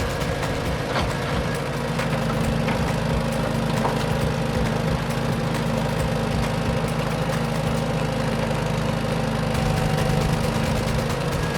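A steady, low engine hum like a heavy vehicle idling, with a few faint clicks.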